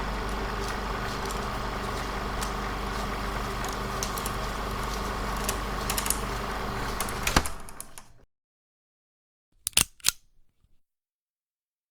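A steady mechanical hum with scattered clicks, stopping with a clack about seven and a half seconds in. A couple of sharp clicks follow near the end.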